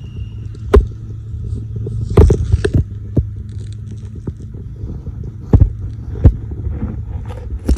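Car engine idling with a steady low hum, broken by several sharp knocks: one about a second in, a cluster around two to three seconds, and two more past the middle.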